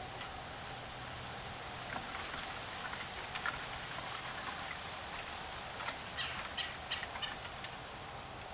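Red-bellied woodpecker giving short, sharp calls, scattered at first and bunched together in a quick series near the end, over a steady hiss of background noise.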